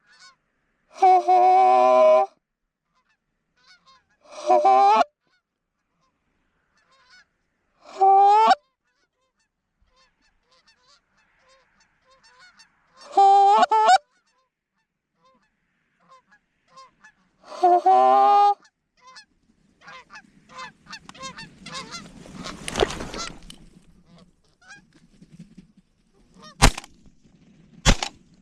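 Canada goose honks, loud and close, in five separate series over the first 19 seconds. These are followed by a few seconds of rustling. Near the end come two sharp shotgun blasts about a second and a half apart.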